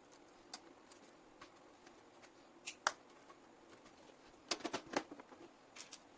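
Scattered sharp clicks and taps of small hard objects being handled: a pair of louder clicks about three seconds in, then a quick run of several clicks about a second and a half later.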